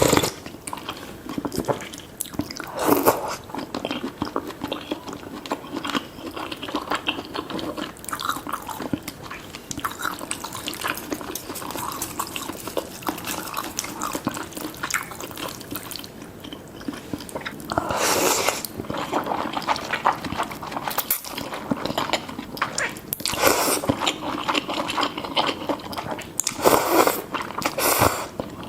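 Close-miked eating of noodle soup: wet chewing and small mouth clicks, with several louder slurps spread through.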